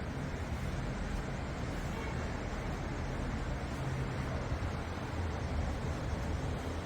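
A steady low mechanical rumble with an even hiss over it, unchanging throughout.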